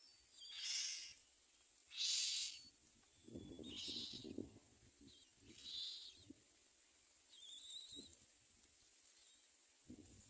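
Myna nestlings giving short, raspy, hiss-like begging calls: four bursts a second or two apart. A low scuffling comes from the nest partway through, and a brief thin whistle sounds near the end.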